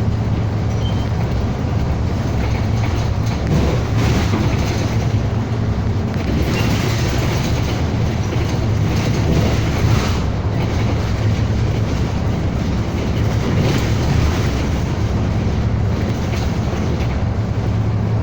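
Steady drone of a city bus's engine together with tyre and road noise, heard from inside the moving bus's cabin; it swells slightly a few times.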